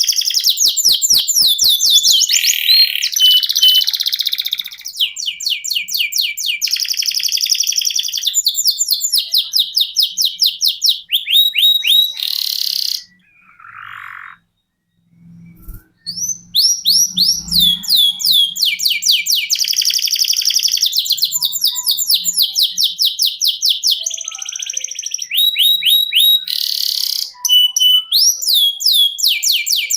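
Canary singing long rolling trills of fast repeated sweeping notes. The song breaks off for about three seconds around the middle, then resumes.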